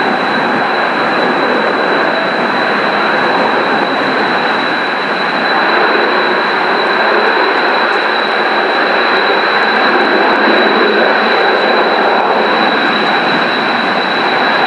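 Kawasaki T-4 jet engines running at idle on the ramp: a loud, steady rush with a high, even whine over it.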